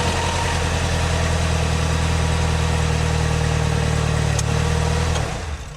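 An engine idling steadily with a low, even hum, then shutting off and winding down about five seconds in.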